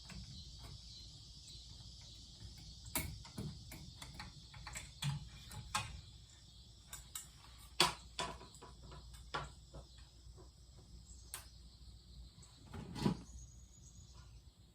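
Irregular light clicks and knocks from handling the parts of a ceiling fan being taken apart, over a steady low hum, with two louder knocks about eight and thirteen seconds in.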